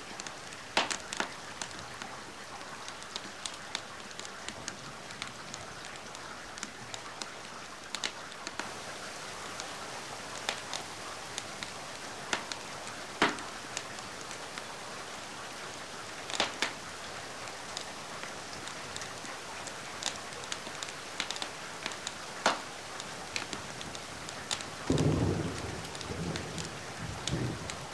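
Steady rain with scattered sharp pops and crackles from a fireplace. A short low rumble of thunder comes near the end.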